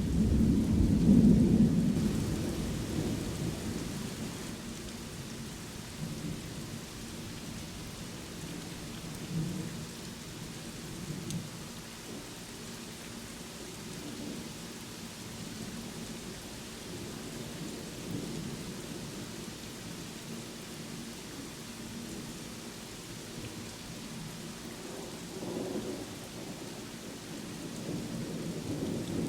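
Steady rain falling during a thunderstorm. A loud, low thunder rumble at the start fades away over the first few seconds, and another rumble builds near the end.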